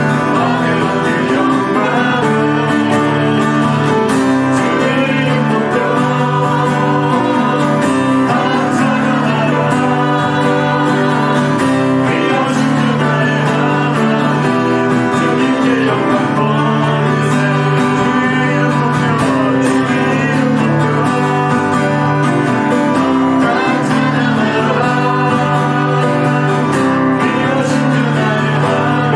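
Church praise team singing a worship song with instrumental accompaniment, playing continuously.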